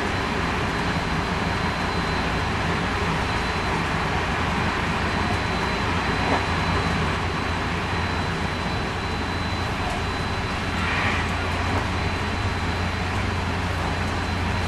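Running sound inside the motor car of a JR West 223 series 2000-subseries electric train with a Hitachi IGBT inverter, moving steadily along the line: wheel and rail noise over a low rumble, with a faint steady high tone. The low rumble grows a little stronger about ten seconds in.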